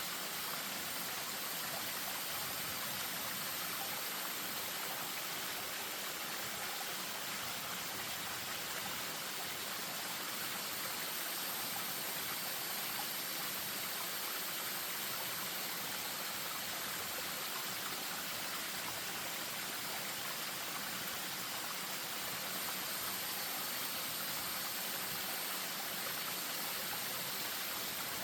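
Spring-fed stream spilling over a small waterfall: a steady, even rush of running water.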